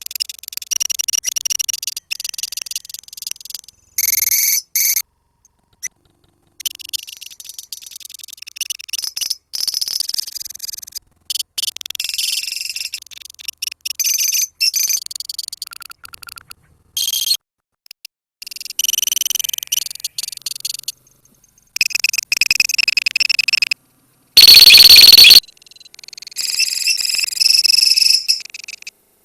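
Colony of lovebirds chattering and chirping shrilly in bursts of a second or two, broken by abrupt gaps of silence, with one loud, harsh burst about twenty-five seconds in.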